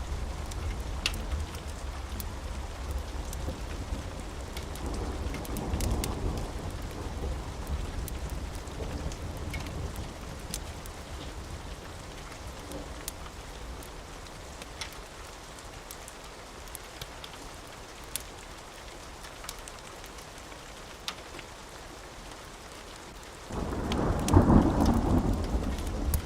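Steady rain with thunder rumbling low, swelling briefly and then fading, before a sudden loud thunderclap rolls in near the end. Scattered sharp crackles of a wood fire sound over the rain.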